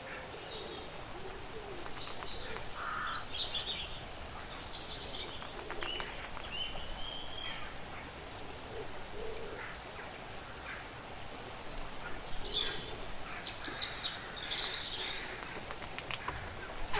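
Woodland ambience: songbirds singing repeated high, falling phrases, with a few short low calls and scattered small clicks over a steady background hiss.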